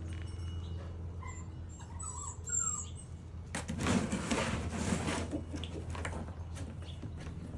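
Blue heeler puppies giving a few short, high, wavering squeaks, then a couple of seconds of scuffling and rustling about halfway through, over a steady low hum.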